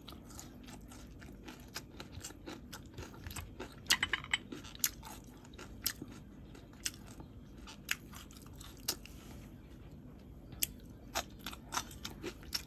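Close-miked chewing: a person eating, with irregular crunches and sharp mouth clicks, a quick cluster of them about four seconds in.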